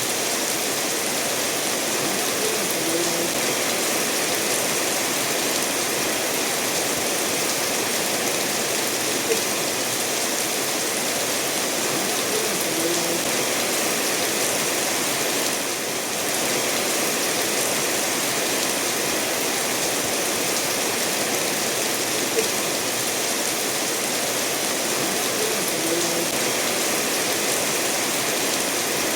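Steady rain falling together with a stream running over stones, an even hiss of water with a few separate drops ticking. It dips briefly about halfway through.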